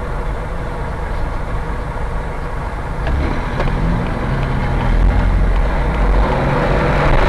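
Steady low rumble of a car's engine and road noise, picked up by a dash camera, growing a little louder about five seconds in, with a couple of faint clicks about three seconds in.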